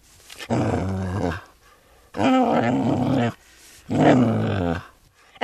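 An animal giving three long, low, rough growling calls, each about a second long, with short pauses between them.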